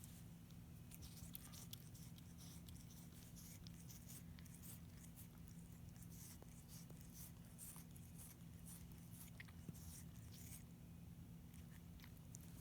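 Faint, scattered ticks and scratches from a tabby house cat's claws and paws as it plays, over a low steady hum; the ticks thin out near the end.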